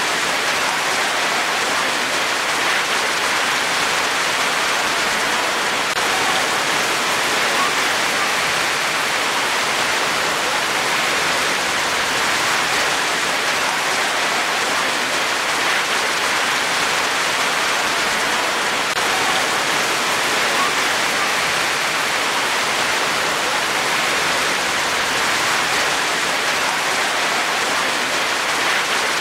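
Steady rain falling: an even hiss of drops that holds the same strength throughout.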